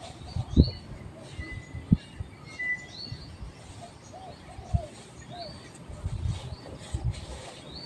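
Birds calling outdoors: a short rising chirp repeats about every second, with a few lower calls and brief whistles in between. Scattered dull low thumps sound over it.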